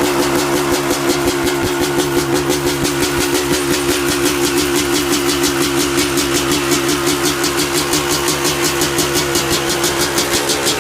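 2003 Yamaha YZ250's 250 cc two-stroke single-cylinder engine idling steadily with a regular pulsing beat, freshly rebuilt and on its first run-up.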